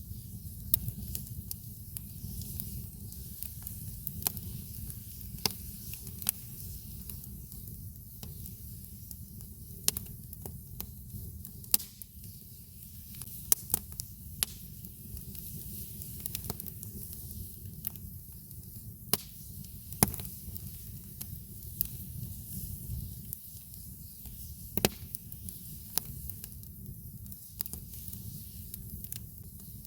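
Campfire wood crackling and popping, with irregular sharp snaps of which a few stand out loudly, over a steady low rumble.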